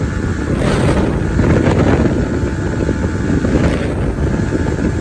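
Heavy wind rush on the microphone while riding a Kawasaki ZX-10R, with the bike's inline-four engine running under way, mostly covered by the wind.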